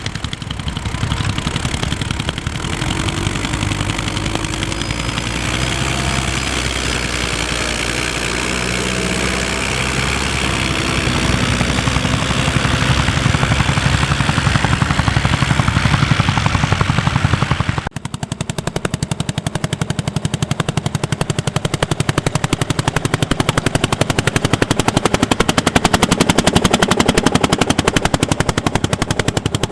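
Vintage tractor engines working under load while ploughing. About halfway through the sound changes abruptly to a single engine with a fast, even, sharp exhaust beat.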